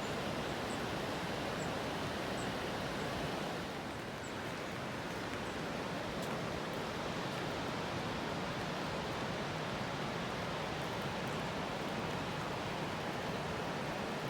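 Steady, even rushing of water, with a few faint light ticks.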